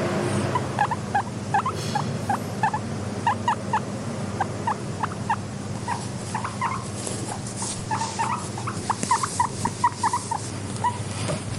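Guinea pig squeaking in quick, short chirps, several a second, over a steady low hum.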